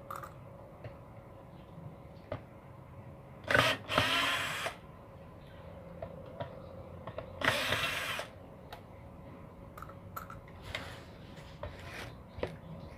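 Electric screwdriver whining in two short bursts, about 3.5 and 7.5 seconds in, backing screws out of a car power amplifier's casing. Small clicks and knocks of screws and metal parts come between the bursts.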